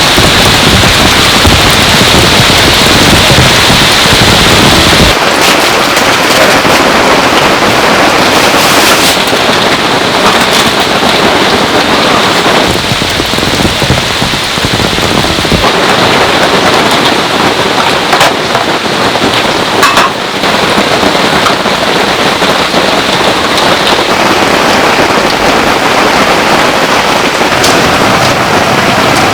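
Heavy rain falling steadily and loudly. About five seconds in, the deep rumble underneath drops away suddenly, and a few sharp drips or taps stand out later on.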